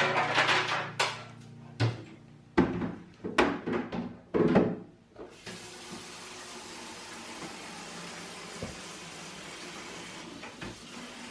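A series of sharp knocks and clatters in the first few seconds, then a kitchen tap running steadily into a sink.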